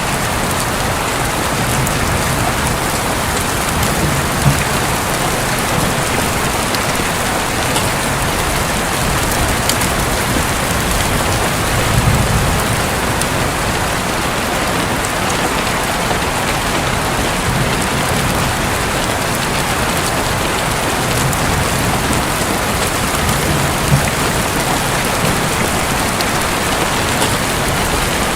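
Heavy rain falling steadily on a roof, with soft low rumbles of distant thunder now and then.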